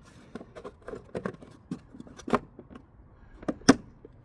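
Plastic fuse box cover in a car's engine bay being fitted back on: a run of light clicks and knocks, with a sharper snap about two and a half seconds in and the loudest one near the end.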